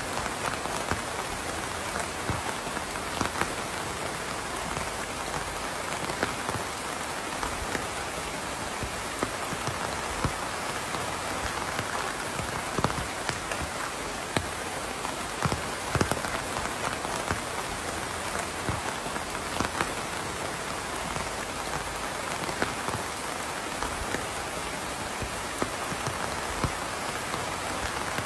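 Steady rain falling, a constant hiss with scattered close drops ticking sharply on a surface.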